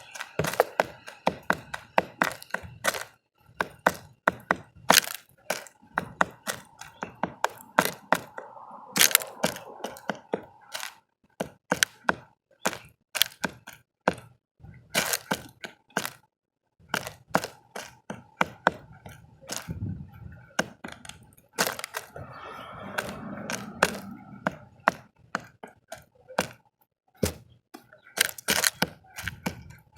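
Birds feeding at a bird feeder, pecking and cracking seed: a quick, irregular series of sharp taps and cracks.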